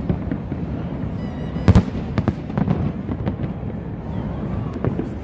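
Aerial fireworks shells bursting overhead: a constant rumble of distant booms and crackle, with a string of sharp bangs, the loudest a little under two seconds in.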